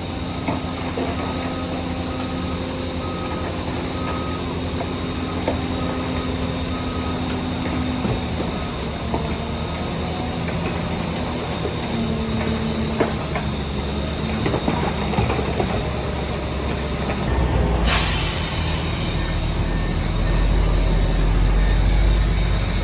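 Diesel engine of heavy earthmoving machinery, a crawler bulldozer or dump truck, running steadily with scattered knocks and clanks. About eighteen seconds in the sound cuts abruptly to a deeper, louder engine rumble.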